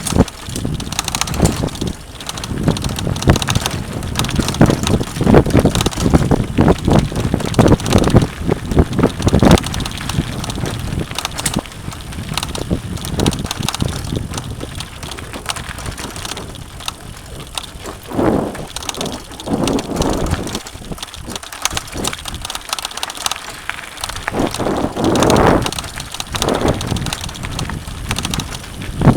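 Mountain bike riding down a rough dirt trail: irregular clatter and rattling from the bike and the tyres over rocks and roots, with wind buffeting the microphone in uneven gusts.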